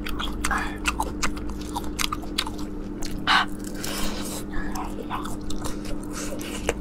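Close-miked mouth sounds of a woman biting and chewing a spice-coated chicken leg roll: wet chewing with frequent small clicks and smacks and one louder noisy burst about three seconds in, over a steady low hum.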